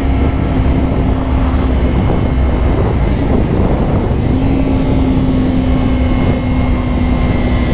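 Kawasaki Ninja 500 parallel-twin engine running at steady cruise under heavy wind noise on the helmet mic. The engine note drops away briefly about three seconds in, then holds steady again.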